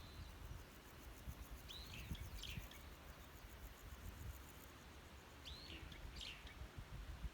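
Small wild birds at a seed feeder giving short, high chirping calls, two pairs of calls a few seconds apart, over faint low rumbling with a few soft thumps.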